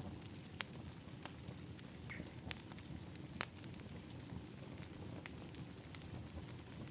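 Outdoor wood fire pit crackling, with scattered sharp pops over a steady low rumble; three pops stand out, about half a second in, past two seconds and past three seconds.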